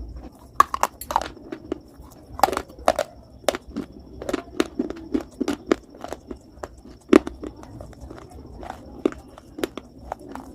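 A person biting and chewing hard, brittle pieces, giving many sharp, irregular crunches and cracks close to the microphone; the loudest crack comes about seven seconds in.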